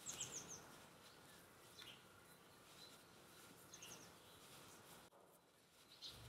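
Near silence, with faint high bird chirps: short runs of quick falling notes about every two seconds.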